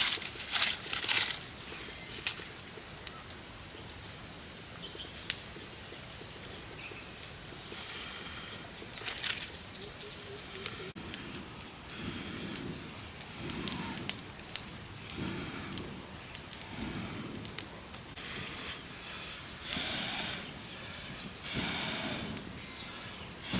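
Rural outdoor ambience: a steady high insect-like tone, a few short rising bird chirps, and repeated bursts of rustling, loudest right at the start and twice near the end.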